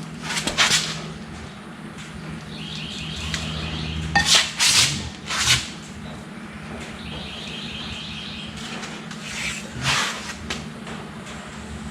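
A ratchet wrench clicking in two short, rapid runs while bolts are turned out of an outboard's lower unit, with several sharp metallic clanks of tools and parts between them over a steady low hum.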